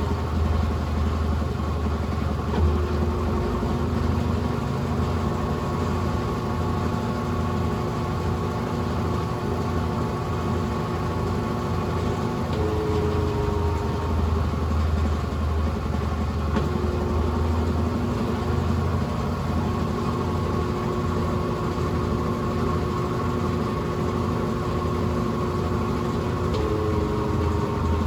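Brastemp Ative 11 kg BWL11 washing machine running: a steady motor hum, with a tone that shifts in pitch every several seconds in a repeating cycle.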